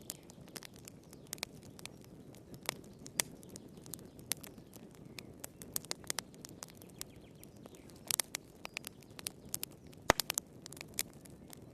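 Wood fire crackling in a fireplace: irregular sharp pops and snaps over a low steady rumble, with a quick run of snaps about eight seconds in and the loudest pop about two seconds later.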